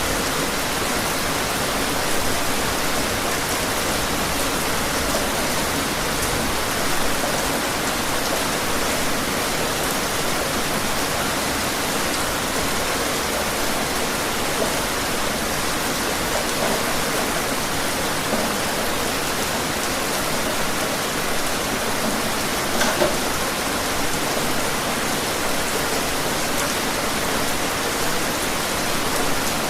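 Steady rain falling, an even hiss with scattered drop patter that comes a little more strongly about 23 seconds in.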